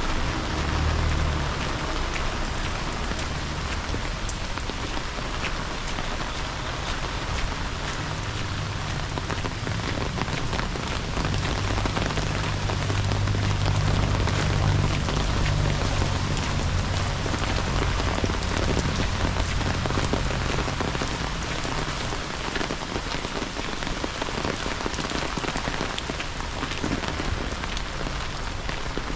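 Steady rain falling, with many small drops ticking on hard surfaces, over a low steady rumble that swells through the middle.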